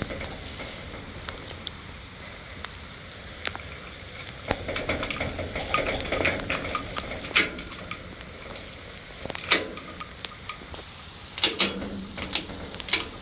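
Steady rain falling, with scattered sharp clicks and clinks over it, a few louder ones near the end.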